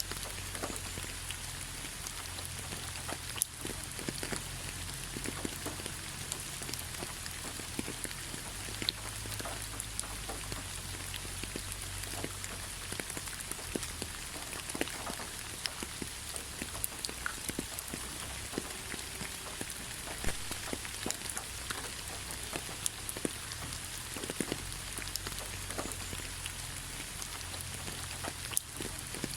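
Steady rain falling on a surface, an even hiss dotted with many separate drop ticks, over a low rumble.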